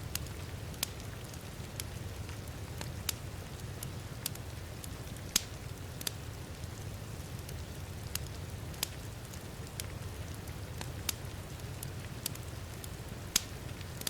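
Wood fire crackling with sharp pops at irregular intervals, the loudest about five seconds in and again near the end, over a steady low rumble and the hiss of rain.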